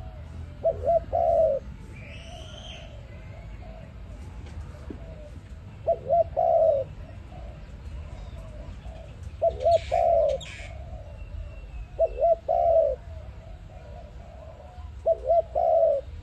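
A dove cooing: five repeated coo phrases, each two short notes followed by a longer one, about every three seconds. A higher bird chirp sounds once early on over a low steady background rumble.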